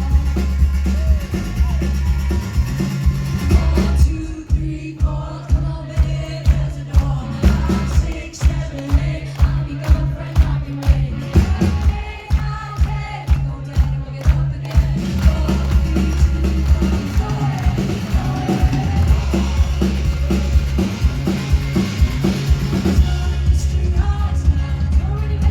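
A rock band playing live, with a woman singing lead over drums, bass and guitar. About four seconds in, the full sound breaks into a run of evenly spaced, hard-hit drum strokes, and the steady band sound returns about halfway through.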